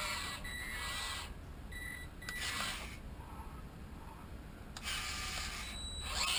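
Small electric motor and gearbox of a toy RC tracked military truck whirring in several short bursts with a thin high whine as it is driven in spurts.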